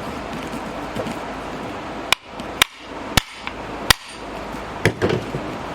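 Five sharp metallic strikes with a short ring, about half a second to a second apart, as the new upper strut mount is worked down onto the strut and spring.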